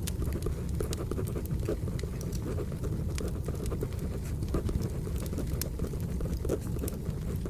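Wood fire crackling over a low steady rumble, with irregular sharp pops and snaps. Pencil scratching on paper is mixed in.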